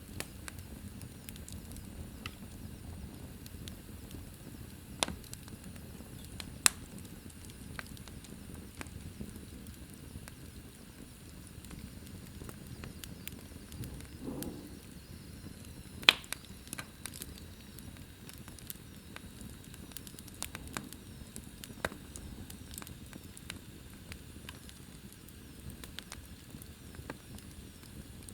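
Wood fire burning in an open fireplace: a steady low rumble of flames with sparse crackling and a few sharp pops from the burning logs, the loudest a little past halfway through.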